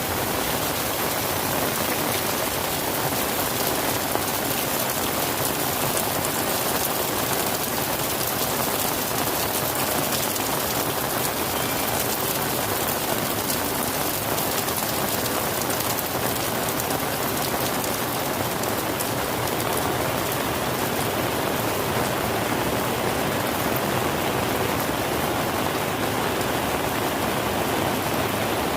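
Steady rain falling, an even hiss with a fine patter of drops on surfaces.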